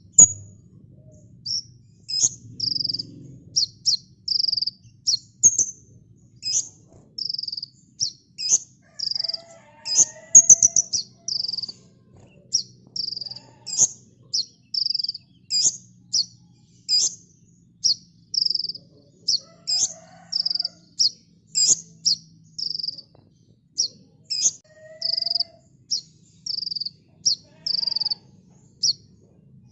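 Kolibri ninja sunbird singing: a steady run of short, high, sharp chirps, about one to two a second, with a quick burst of rapid notes around ten seconds in.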